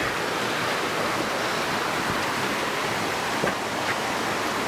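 Steady rushing of falling water from a mountain waterfall, an even hiss with no breaks.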